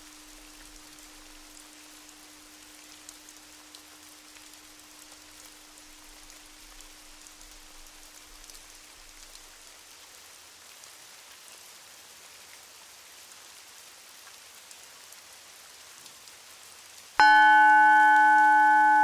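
A soft steady hiss, with the last of a low bowl tone dying away over the first half. About two seconds before the end a Tibetan singing bowl is struck once, sharply, and rings on loudly with several steady overtones.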